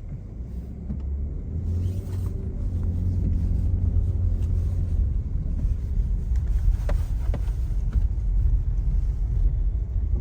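Car engine and road rumble heard from inside the cabin, growing louder over the first few seconds as the car picks up speed, then holding steady. A couple of faint clicks come about two-thirds of the way through.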